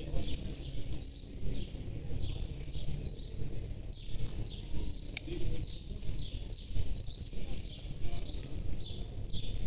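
Small birds chirping over and over, with short high chirps that fall in pitch about twice a second, above a steady low rumble of outdoor background noise. A single sharp click comes about five seconds in.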